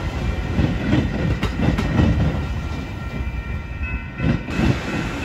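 Metra bilevel commuter train's last car, a cab car, rolling past: a heavy rumble of wheels on rail with irregular clacks over the rail joints. The sound eases off after about three seconds as the end of the train goes by, with a last few clacks near the end.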